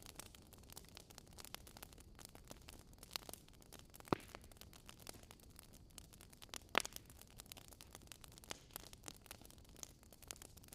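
Wood fire crackling: a dense run of faint small clicks over a low rumble, with two louder pops about four and seven seconds in.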